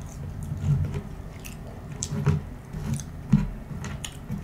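Close-miked chewing of McDonald's food: soft, wet mastication with sharp little mouth clicks scattered through it.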